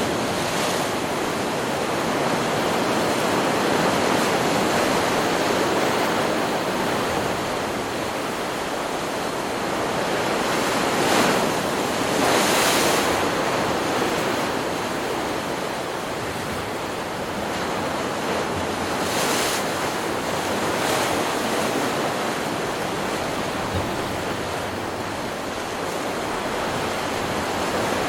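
Ocean surf: a continuous wash of waves breaking on a beach, swelling to louder crashes about a third of the way in and again briefly later.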